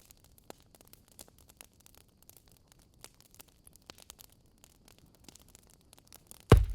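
Wood fire crackling in a fireplace: scattered sharp pops and ticks, with one loud low thump near the end.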